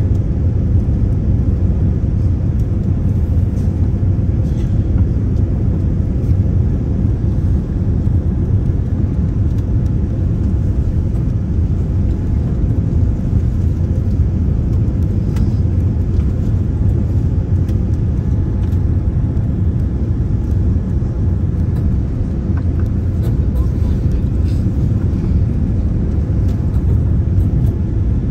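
Steady low rumble inside an airliner's cabin, from the engines and airframe as the plane lands.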